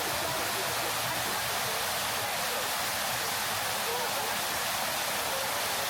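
Steady rushing and splashing of fountain water, with indistinct voices of people talking nearby.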